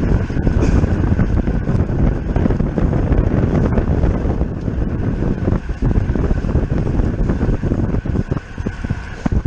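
Heavy wind buffeting the microphone of a bicycle moving at race speed, a loud, steady low rumble.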